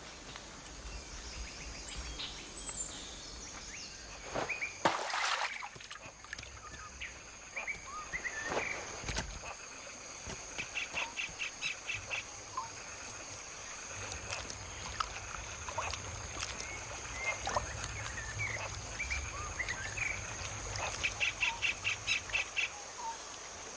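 Forest birds calling with scattered short chirps over a steady high-pitched whine. Twice there is a rapid trilled run of about ten pulses a second, and a brief noisy burst comes about five seconds in.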